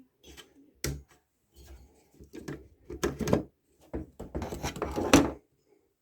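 Irregular knocks, taps and clatter of hard objects being handled and set down, with a sharp knock about a second in and a busy run of rattling clatter near the end.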